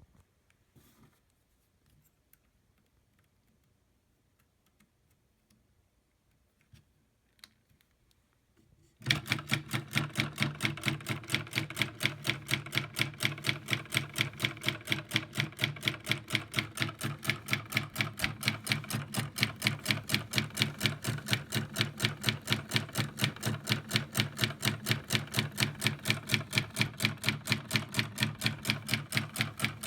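Near silence with a few faint ticks, then about nine seconds in a DIY solenoid-powered reciprocating engine starts and runs steadily, its solenoid clacking at an even, rapid beat of several strokes a second.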